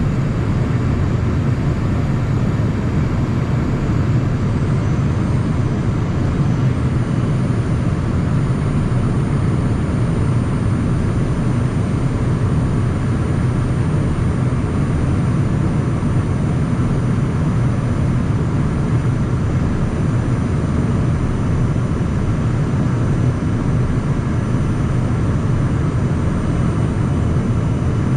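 Cockpit noise of a Cessna Citation Mustang light jet in flight: a steady rush of airflow and twin-turbofan engine noise, heaviest in the low range, with faint thin high tones above it. The sound is recorded through an ordinary camera microphone inside the cabin, not the headset feed.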